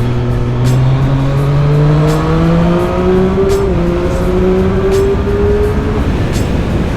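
Triumph Street Triple 765 RS's three-cylinder engine on its stock exhaust, accelerating through the gears. The pitch climbs steadily, drops at a gear change about three and a half seconds in, climbs again, and drops again near the end.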